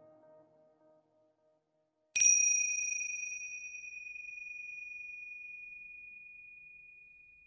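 A single high bell-like ding, struck once about two seconds in and ringing out in a clear tone that slowly fades over several seconds. Soft synth music trails off just before it.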